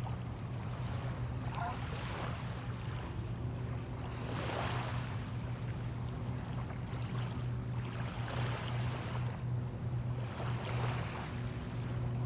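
Small bay waves washing in every few seconds over a steady low engine hum.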